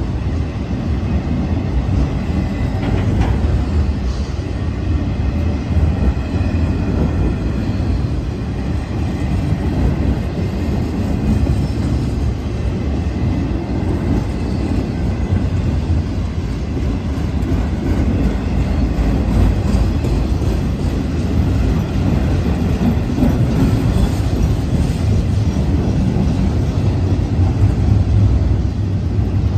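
Autorack freight cars of a CSX train rolling past close by: a steady, loud rumble of steel wheels running on the rails.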